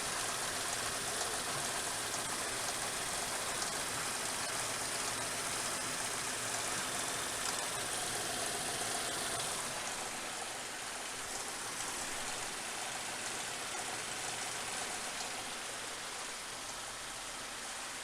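Suzuki Grand Vitara 2.5-litre V6 engine idling steadily in the shop, an even hiss-like running that eases slightly about ten seconds in. It is running smoothly, with no misfire heard at this moment.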